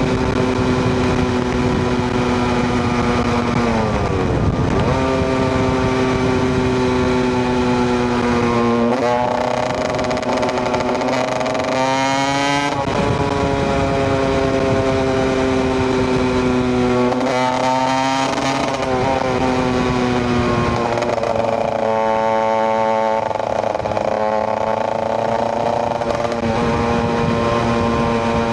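KTM EXC 125 single-cylinder two-stroke engine running while the bike is ridden. Its note sags slowly, then rises quickly as the throttle is opened, about five times.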